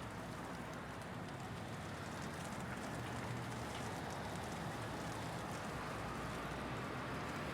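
City street ambience: a steady rumble of traffic with a light ticking of hail over it, getting slightly louder about two seconds in.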